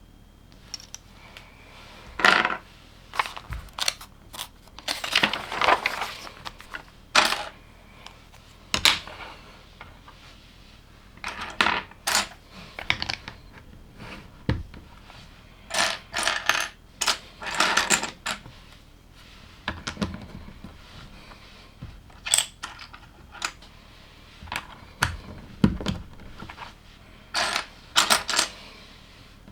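Small plastic LEGO pieces clicking and rattling as they are picked out of loose parts and pressed together, in irregular bursts of clicks with a few longer rattles.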